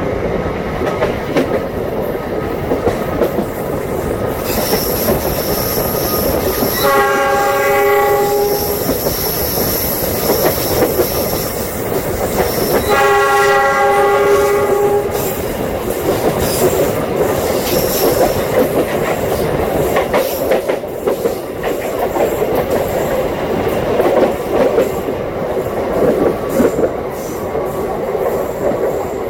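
Passenger train running at speed, its wheels clattering steadily over the rails, heard from beside the carriage. The locomotive's horn sounds twice, about seven and thirteen seconds in, each blast about a second and a half long.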